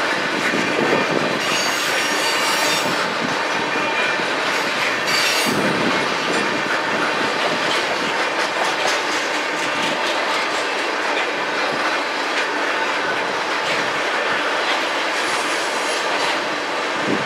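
Freight train tank cars rolling past: a steady rumble and clatter of steel wheels over the rails. Brief high-pitched wheel squeals come about two seconds in, around five seconds and again near the end.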